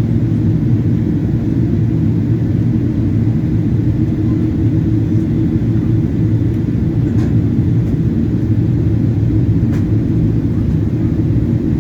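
Steady low cabin roar of a Boeing 777-200 in flight, from its engines and the air rushing past the fuselage, with a couple of faint clicks.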